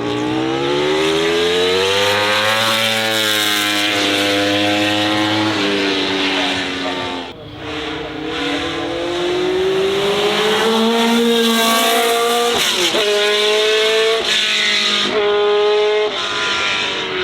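Racing car engine at high revs, pitch climbing under acceleration and dropping at a series of gear changes, the shifts coming quickly one after another in the last few seconds.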